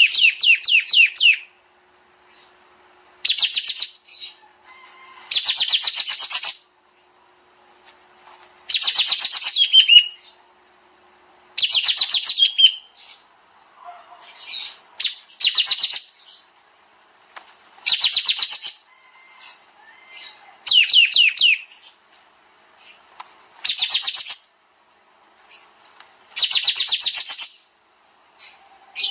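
Kapas tembak songbird singing in rapid-fire bursts: fast, dense trills of high notes, each burst lasting about a second and repeated every two to three seconds.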